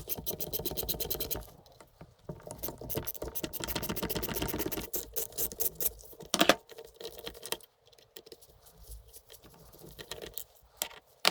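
Rapid clicking and rattling of small hard parts being handled on a workbench, in two dense runs, with a sharper knock about six and a half seconds in and scattered lighter clicks after.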